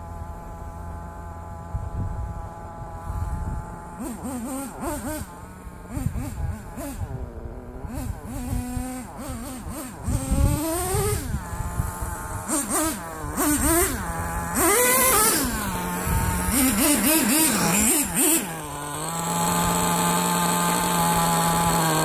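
Small two-stroke nitro engine of an RC truck (Dynamite Mach 19) idling, then revved up and down over and over as the truck is driven, settling into a steady, fast idle near the end. The engine is tuned on the rich side, and the owner thinks it could be leaned out a little.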